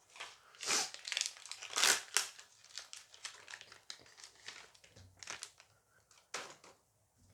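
Foil booster pack wrapper being torn open and crinkled by hand, in irregular rustling bursts that are loudest in the first two seconds and then thin out.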